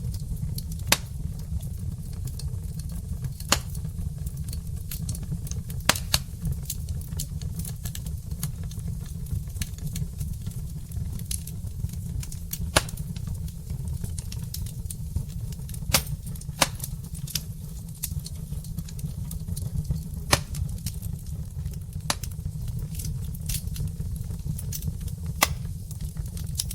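Logs burning in a fireplace: a low steady rumble with irregular sharp crackles and pops, about ten of them loud, scattered through.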